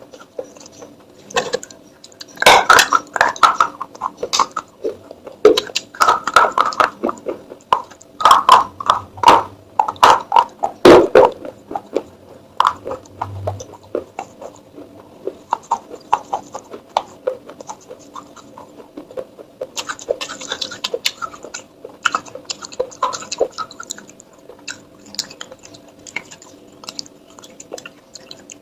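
Clay pot and utensils being handled: irregular taps, clinks and scrapes, some in quick clusters, over a faint steady hum.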